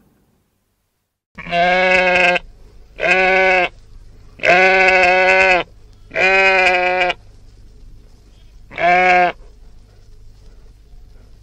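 A sheep bleating five times, each bleat a drawn-out, steady-pitched call lasting up to about a second, the last one shorter.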